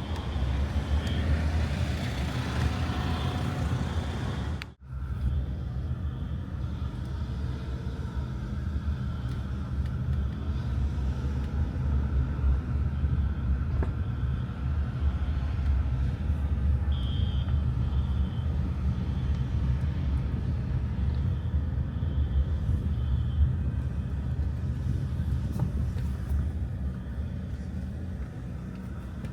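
Steady low rumble of road-vehicle noise, broken by a sudden brief dropout about five seconds in.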